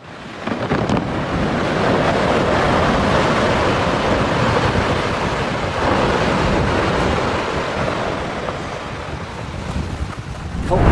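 Strong wind buffeting the microphone: a dense, steady rush that swells and eases slightly.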